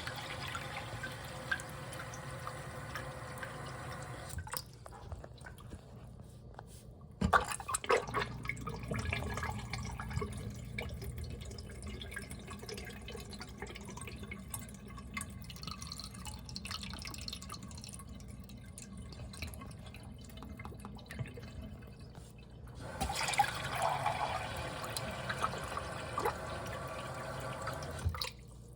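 Water running through a miniature toilet and its tank. A steady rush of water plays for the first four seconds. About seven seconds in, a click is followed by flushing, trickling and dripping water. Another steady run of water comes near the end.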